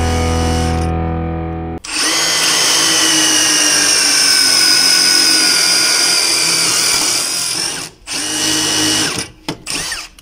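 A Milwaukee M18 cordless drill/driver boring a twist bit into steel angle iron: after a steady low drone that cuts off abruptly, the drill cuts with a high whine that slowly falls in pitch for about six seconds, then stops and gives a few short bursts near the end.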